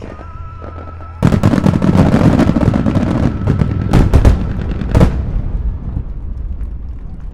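Fireworks: a dense barrage of aerial shells bursting all at once, starting suddenly about a second in. It is full of booms and crackle, with the heaviest bangs around four and five seconds, then the rumble dies away.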